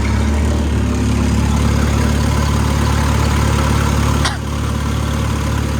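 Old tractor engine running steadily at raised throttle while it warms up after a cold start. About four seconds in the sound briefly dips and shifts, then runs on steadily.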